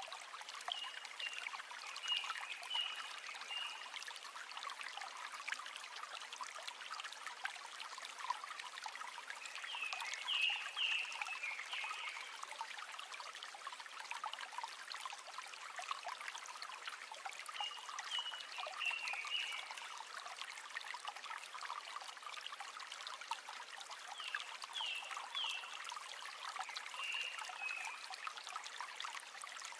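River water running with a steady trickling rush full of small splashy ticks. Four times, short runs of high-pitched chirps from a small animal sound over it.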